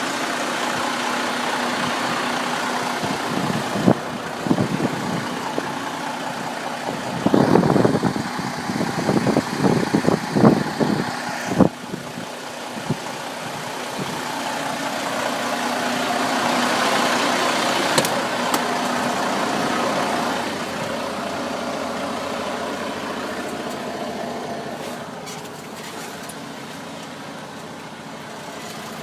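Truck engine running steadily, with a cluster of knocks and rattles between about four and twelve seconds in and the engine sound swelling louder around sixteen to twenty seconds.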